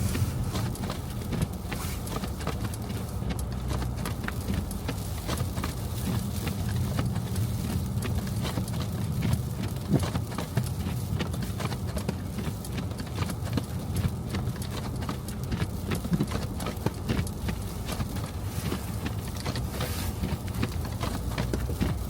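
Car cabin while driving: a steady low road rumble with many irregular small clicks and taps.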